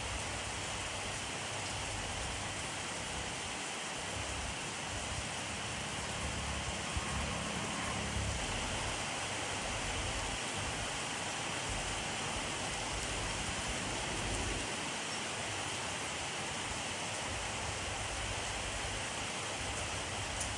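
Steady rainfall, an even hiss of drops on surfaces, with a low rumble swelling briefly about a third of the way in and again near the middle.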